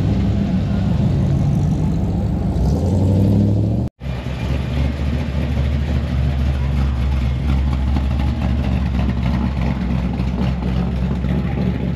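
A classic car engine running at idle, a steady deep rumble with a slight rise in revs near the three-second mark. The sound cuts out for an instant about four seconds in and comes back as a lower, steadier drone.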